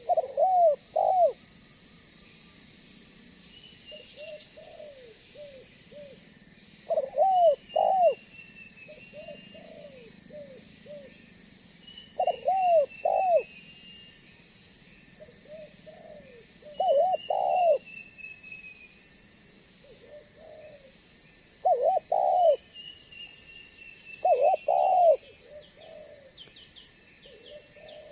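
Spotted dove (tekukur) cooing over and over, each phrase a few soft notes leading into two or three loud coos, about every four to five seconds.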